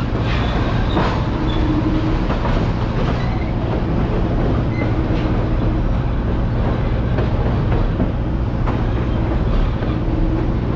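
Passenger train rolling steadily over an open-deck trestle, heard from aboard: a continuous low rumble of the cars with scattered clicks of the wheels on the rails.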